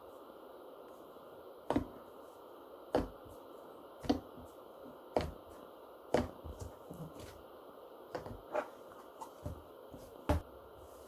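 Slime being pressed and poked by hand, giving sharp clicking pops about once a second.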